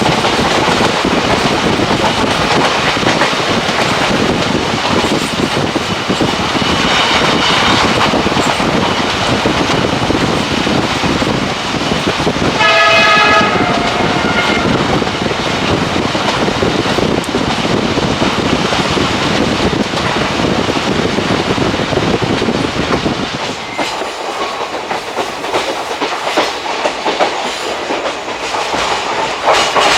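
Passenger train of ICF coaches running along the track, with the wheels clacking and a steady rumble. The locomotive horn sounds once for about a second and a half about halfway through. The low rumble eases about three-quarters of the way through.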